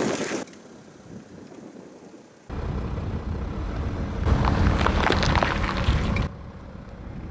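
Car rolling slowly with a low rumble of engine and tyres, starting suddenly a couple of seconds in, with crackling and crunching for about two seconds as a tyre crushes an object.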